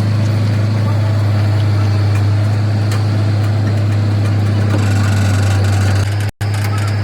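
An engine or motor running steadily with a loud, even low hum. It cuts out abruptly for an instant near the end, then carries on.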